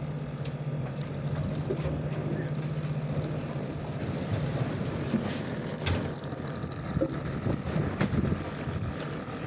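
Fishing boat's engine running with a steady low hum. From about halfway in, scattered clicks and knocks of handling on deck are heard over it.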